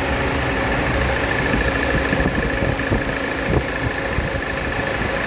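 Peugeot 207 CC's engine idling steadily with a thin, steady whine over it, which the seller judges normal.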